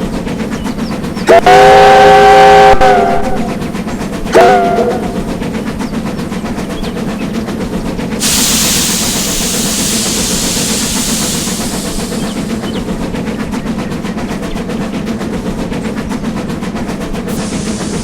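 Small train locomotive running with a steady rapid clatter, sounding one long chord-like whistle blast about a second in and a short toot a few seconds later. A broad hiss comes in about halfway and fades after a few seconds.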